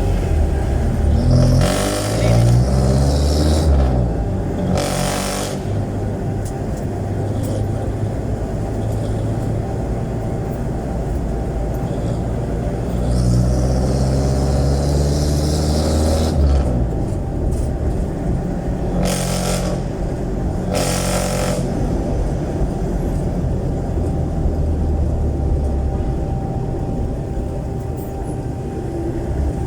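Jeepney's Isuzu 4BC1 four-cylinder diesel running loud through an open, very loud exhaust, its pitch rising as it accelerates at the start and again about halfway through, then running steadily. Several short hissing noises cut in over it.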